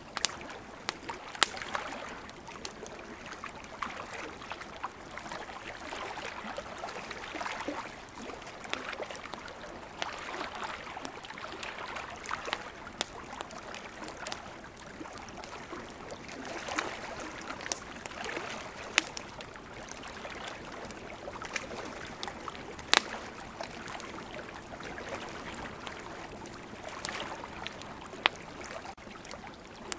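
Campfire crackling, with sharp irregular pops scattered throughout, over the steady wash of ocean waves that swells and eases every few seconds.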